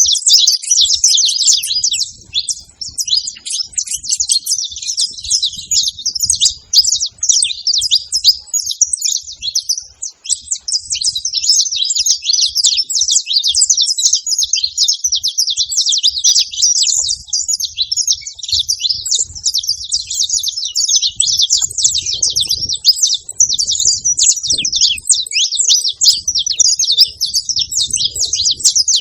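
Saffron finches chirping without pause, many short high-pitched calls overlapping in a dense chatter.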